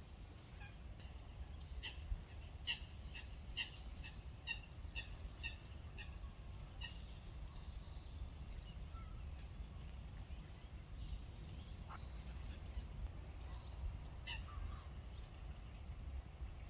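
Sparrows chirping: a run of short, repeated chirps at about two a second for several seconds, then a few scattered chirps later on, over a steady low background rumble.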